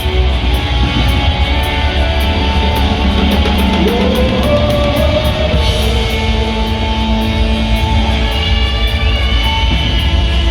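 Rock band playing live, loud and dense, with electric guitars over bass and drums; about four seconds in, a note slides up in pitch.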